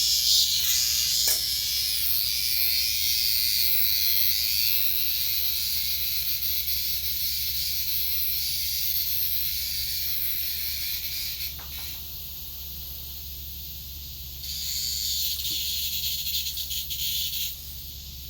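Cicada buzzing, a loud high-pitched hiss. It cuts off about twelve seconds in, comes back a couple of seconds later and stops again near the end.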